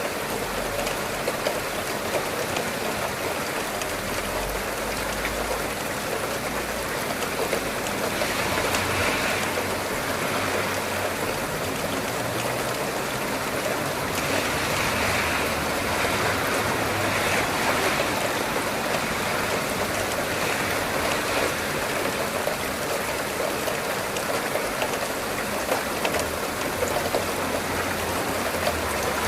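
Steady rain falling: an even hiss of water with fine, dense patter of drops throughout.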